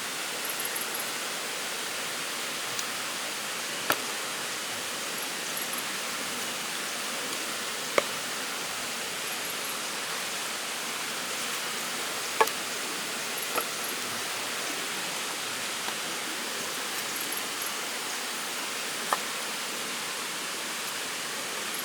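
Steady rain falling, with about five sharp drip taps scattered through it. A faint high chirp in threes repeats every four seconds or so.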